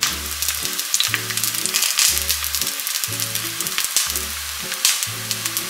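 Eggplant slices frying in hot oil in a pan: a steady sizzle with many small crackles and pops. Soft background music with a regular bass beat plays underneath.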